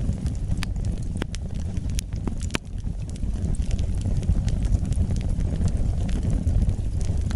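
Wood fire crackling, with irregular sharp pops and snaps over a steady low rumble of burning flames.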